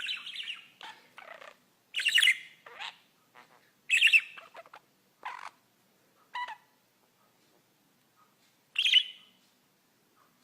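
A pet bird squawking and chirping in short separate calls at irregular intervals, with a pause of about two seconds shortly before a final louder squawk near the end.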